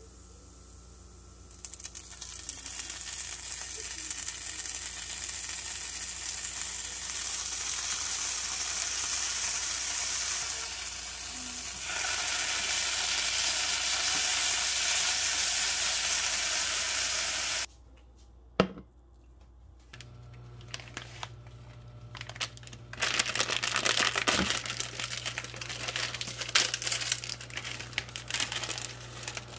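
Rockfish fillets frying in a non-stick pan: a steady, loud sizzle starts just after sauce is poured on, swells about twelve seconds in, then cuts off suddenly. After that an induction cooktop gives a steady low hum, with crinkling and clicking handling sounds over it near the end.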